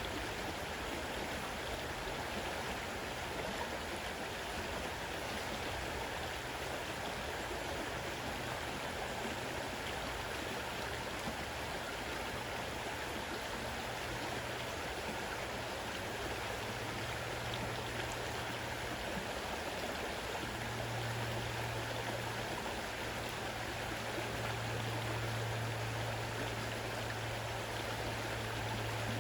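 Fast-running river water rushing steadily. A low, steady hum sits underneath and grows stronger in the second half.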